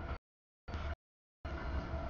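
CSX double-stack intermodal freight train rolling past at a grade crossing: steel wheels on rail and a deep rumble with no clear tone. The sound cuts out completely twice, leaving short chunks of train noise between gaps of dead silence.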